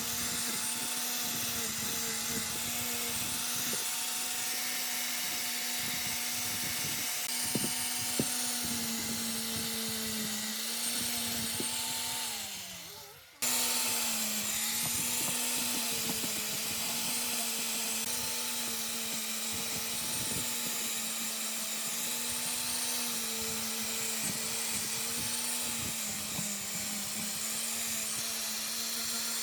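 Electric power-tool motor running with a steady whine. About twelve seconds in it winds down in pitch, then breaks off and is suddenly back at full speed.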